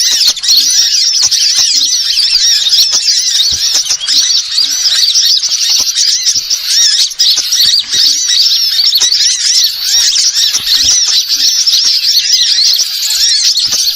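A dense chorus of small birds chirping and twittering without pause, many high-pitched calls overlapping: a bird-lure (pikat) recording of the kind played to draw wild birds in.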